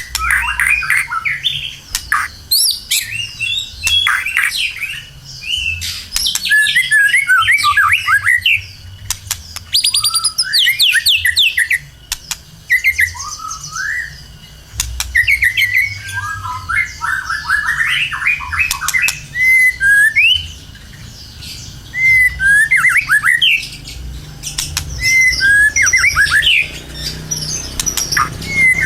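White-rumped shama (murai batu) in full, vigorous song: a continuous run of varied whistled and chattering phrases with quick rising and falling glides, broken by sharp clicks and harsh notes.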